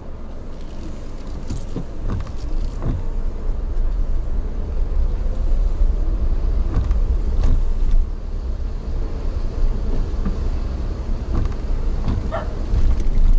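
A moving vehicle running steadily, a low rumble with occasional light knocks and rattles.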